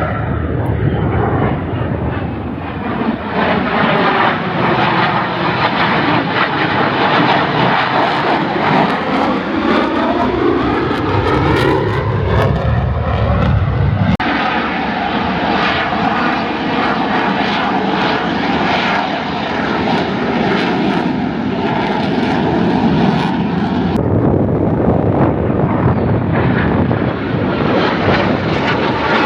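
An aerobatic display aircraft's engine running loud overhead, its pitch gliding up and down as the plane manoeuvres. The sound changes abruptly about 14 seconds in and again about 24 seconds in.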